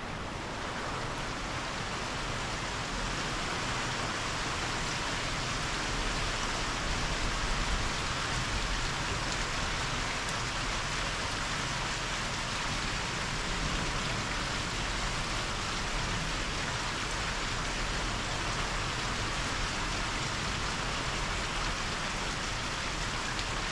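Heavy hurricane rain falling steadily, picking up in the first second and then holding an even hiss.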